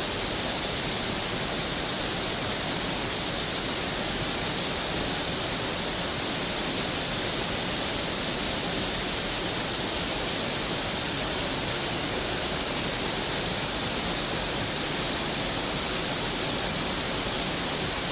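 Waterfall rushing with a steady, unbroken sound of falling water.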